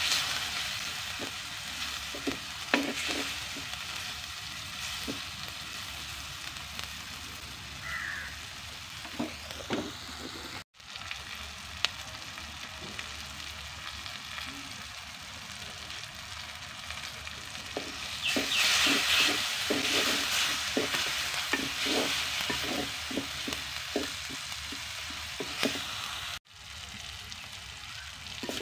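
Onions, tomato, green chillies and curry leaves frying in a clay pot, a steady sizzle with a wooden spoon stirring and knocking against the pot. The sizzle grows louder about two-thirds of the way through.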